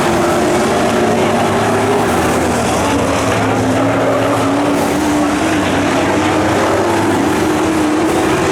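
Dirt-track pro trucks racing, their engines running hard with the pitch drifting down and then back up.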